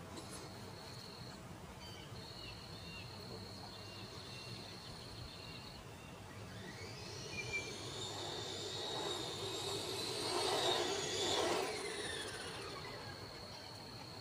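A steady high insect drone runs through. About halfway in, a vehicle's sound swells up, its pitch rising and then falling as it passes, and fades again near the end.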